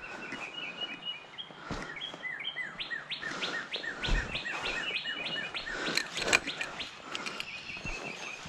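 Small birds singing: a quick, continuous run of short, high chirping notes. A few sharp knocks sound over it, the loudest about six seconds in.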